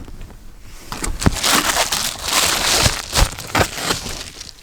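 Reflectix foil-faced bubble insulation being pulled off truck windows and handled, a crinkly rustling with a few short knocks, loudest from about a second and a half to three seconds in.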